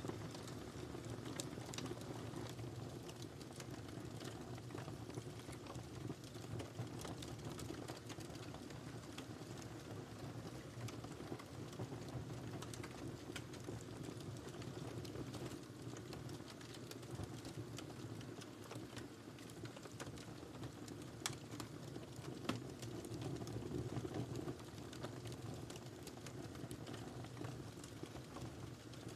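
Wood fire in a fireplace crackling and popping steadily over a low rumble of burning, with a couple of sharper pops past the middle.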